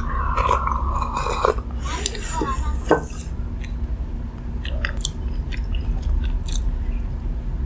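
Close-miked chewing of crunchy fried food, with scattered crisp crunches and wet mouth clicks over a steady low hum.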